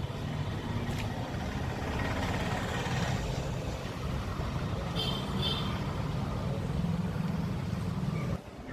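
A motor vehicle's engine running steadily, a low rumble. Two short high-pitched sounds come about five seconds in, and the rumble cuts off suddenly shortly before the end.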